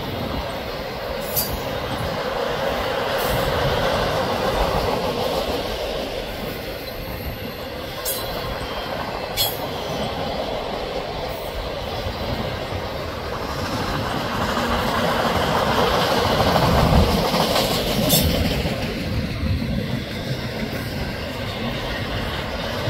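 Freight cars rolling past: a steady rumble of steel wheels on rail from tall autorack cars, swelling and easing a couple of times, with a few sharp clicks now and then. Double-stack container cars start passing near the end.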